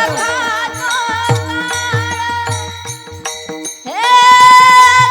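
Marathi kirtan accompaniment: sustained harmonium-like tones over a steady drum beat about every half second, with small hand cymbals clicking. A held note slides up and sustains near the end.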